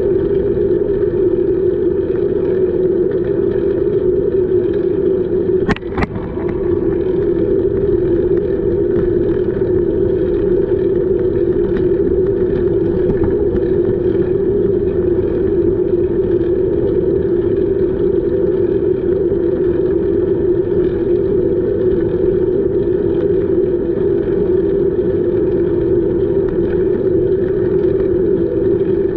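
Steady rushing wind and road noise from a camera carried on a moving bicycle, with one short sharp click about six seconds in.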